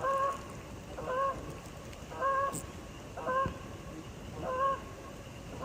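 Geese honking: a series of five short, evenly paced honks, about one a second.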